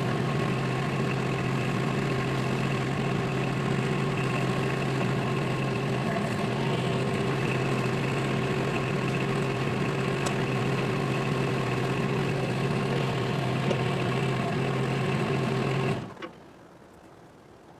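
A machine's motor running with a steady hum, then shutting off abruptly near the end.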